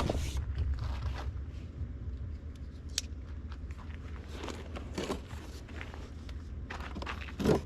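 A cardboard package being handled and opened: scattered crackles, scrapes and knocks over a low steady hum.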